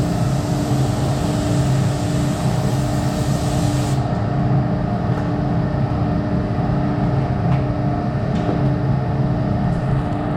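A spray gun hisses steadily as paint is sprayed, then cuts off about four seconds in. Under it, the steady hum of the spray booth's ventilation fans runs on.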